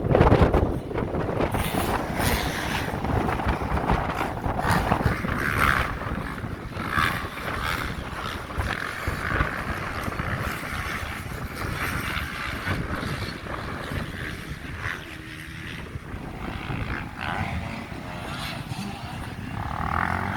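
Motocross bikes racing past, their engines revving hard and backing off in repeated rises and falls. Loudest right at the start, then continuing a little farther off.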